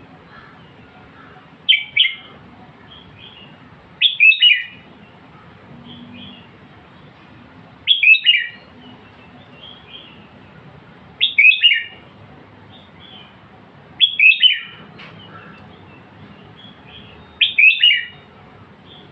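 Red-whiskered bulbul singing: six short, loud, warbling phrases spaced three to four seconds apart, with faint softer notes in between.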